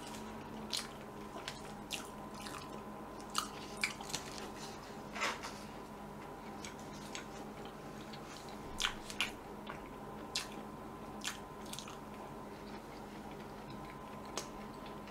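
Close-miked biting and chewing of a strawberry dacquoise: scattered soft crunches and mouth clicks, with a faint steady hum beneath.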